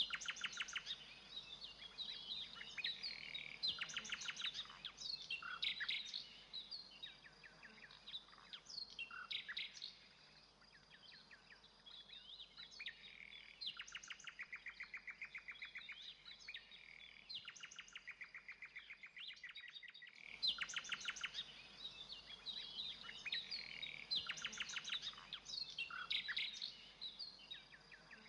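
Birdsong from several birds: fast trills of rapidly repeated notes mixed with short whistles and slurred calls, easing off for a moment partway through and picking up again sharply.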